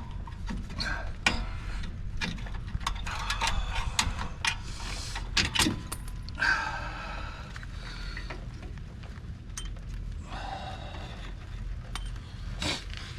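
Metal hand tools working on drum brake hardware: irregular clicks, clinks and short scrapes as the shoe retainer clips and springs are worked loose, over a steady low hum.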